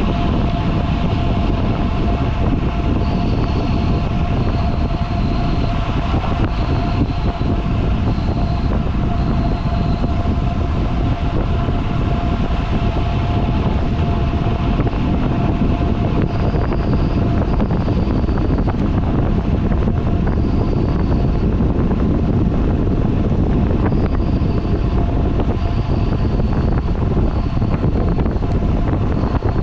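Steady rush of wind on the microphone of a road cyclist riding at speed. Under it runs a steady tone, and short high-pitched notes recur in runs.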